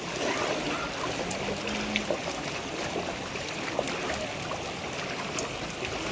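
Floodwater in a flooded street sloshing and splashing, a steady rush of water with small scattered splashes.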